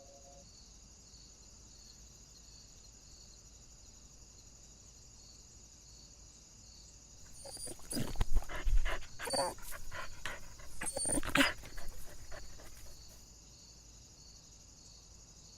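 A dog making a run of short, loud sounds for about five seconds in the middle, over a steady high-pitched background chirring.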